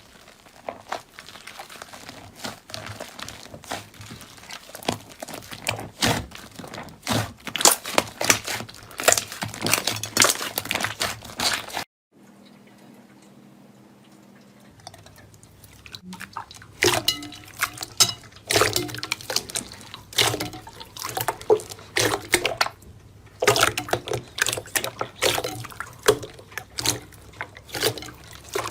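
Slime being squeezed and poked by hand: a rapid, uneven run of clicks and pops that stops briefly about twelve seconds in, then starts again.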